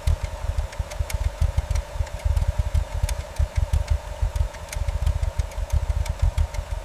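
An engine running with an uneven, lumpy beat, broken by scattered sharp clicks.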